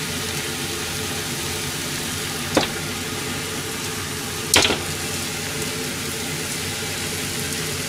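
Udon, pork and onions sizzling steadily in a frying pan over a gas flame, with oyster sauce and soy sauce cooking down and starting to scorch. Two sharp knocks of the pan come about two seconds apart, the second louder.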